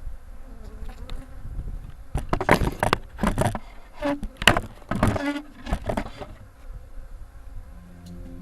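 Honeybees buzzing around an open hive, louder in several bursts in the middle.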